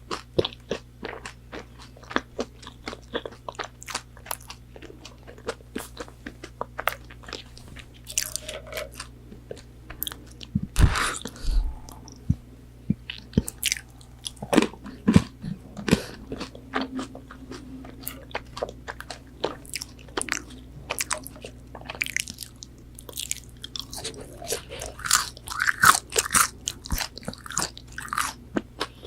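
Close-miked chewing and biting of McDonald's chicken nuggets: crisp breaded coating crunching and crackling in irregular bites, with wet mouth sounds between them.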